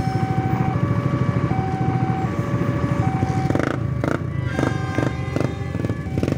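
Passenger train rolling past a level crossing: a steady rumble from the carriages, over the crossing's electronic warning alarm alternating between two tones about every three-quarters of a second. From about halfway in, a quick run of rhythmic clacks joins in.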